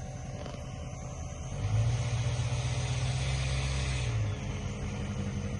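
Motor vehicle engine and road noise: a steady low drone that swells louder for about two and a half seconds, starting near the two-second mark, then settles back.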